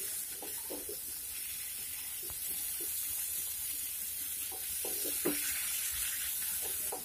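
Cauliflower florets and potato pieces sizzling in oil and spice paste in a nonstick pan, with a spatula stirring and scraping through them in scattered short strokes. This is the masala being dry-roasted with the cauliflower on medium-low heat.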